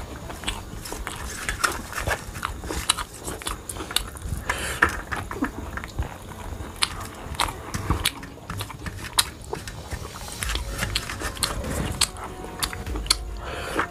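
Close-up eating sounds: chewing of rice and cabbage curry eaten by hand, with many irregular sharp mouth clicks and smacks. Fingers scrape a steel plate as the last of the rice is gathered up.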